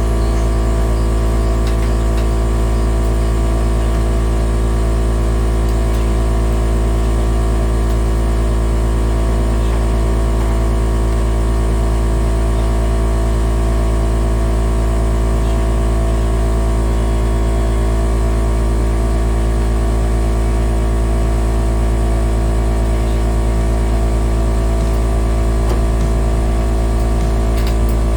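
A loud, steady low hum with several constant tones above it, unchanging throughout.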